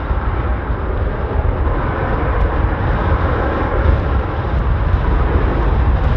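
Strong wind buffeting the microphone: a heavy, uneven low rumble under a steady rushing noise.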